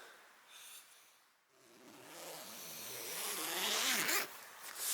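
Tent door zip being pulled open, a long zipping sound that builds from about a second and a half in and stops sharply about four seconds in, with a short further pull near the end.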